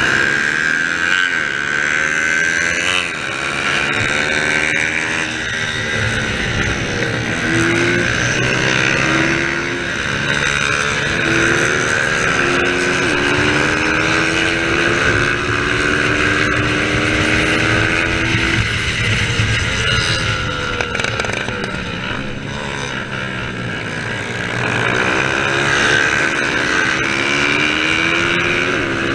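Small-capacity racing motorcycles running flat out, with engine pitch climbing and dropping again and again as they shift gears. Bikes sweep past with pitch glides near the start and again in the last third.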